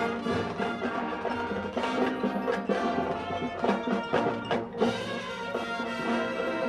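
Marching band playing, with the percussion section to the fore: sharp drum and wood-block hits over held chords.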